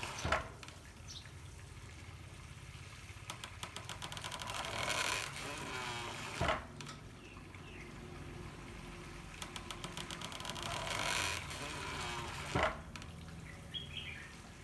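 Handmade water-powered corn mill working in a steady cycle: water flows through bamboo pipes, swells in a rush, and then the mill's beater strikes with a sharp knock, about every six seconds, three times.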